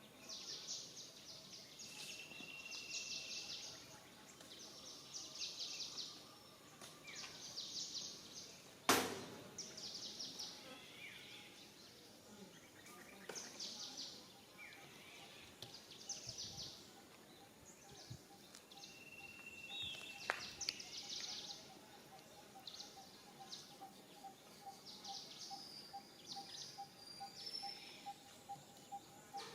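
Outdoor ambience of repeated high bird chirps and trills, with a sharp click about nine seconds in and a steady pulsing call starting around twenty seconds in.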